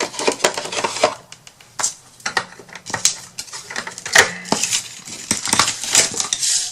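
Small hard objects clicking and clattering against each other, with some rustling, as craft supplies are rummaged through by hand.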